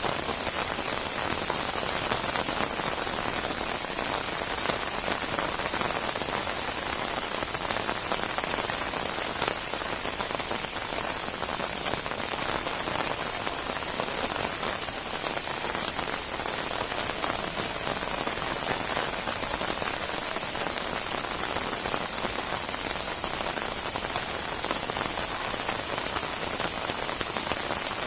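Steady heavy rain falling on a surface, a dense even hiss with fine pattering throughout.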